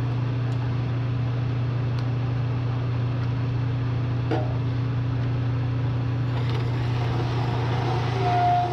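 Bridgeport milling machine's electric motor running with a steady hum. About six and a half seconds in, a higher whirring joins, and near the end a steady high whine sets in.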